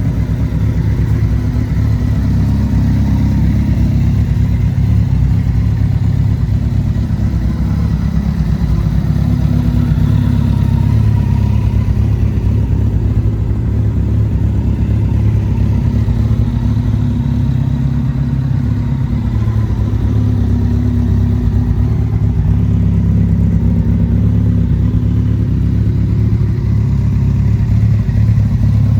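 Honda CBR1100XX Super Blackbird's inline-four engine idling steadily.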